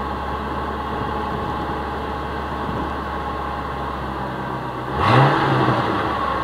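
Ford Crown Victoria P71's 4.6-litre V8 idling steadily through its stock exhaust with Walker high-flow catalytic converters, then about five seconds in a quick blip of the throttle that revs up and falls back to idle.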